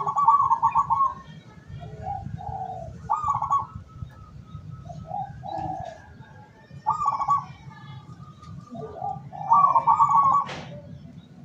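Zebra dove (local perkutut) cooing: four quick, stuttering call phrases about three seconds apart, with softer lower coos between them, over a steady low hum. A single sharp click comes near the end.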